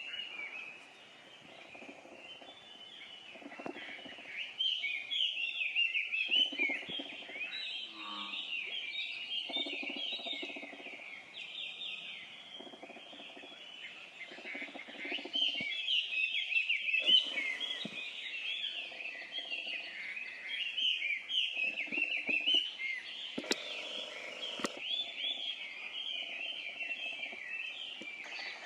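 Juvenile little grebes (dabchicks) begging: a dense, continuous run of rapid high-pitched peeps, loudest in the middle and toward the end. A quieter, lower sound comes and goes underneath, and there are two sharp clicks near the end.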